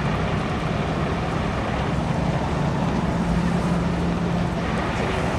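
Fire apparatus engine running steadily with a low drone, under a constant rushing noise.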